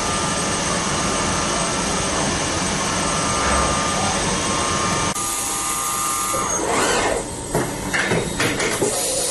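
CNC machining center running with a steady mechanical hum and whine. About five seconds in it changes abruptly to a hiss, followed by irregular clattering.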